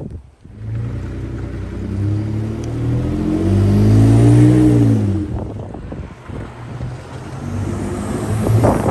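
Ford F150's 3.5 L EcoBoost twin-turbo V6 through an MBRP 3-inch catback exhaust, revving: the pitch climbs to a peak about four seconds in, falls back, then holds steadier before rising again near the end.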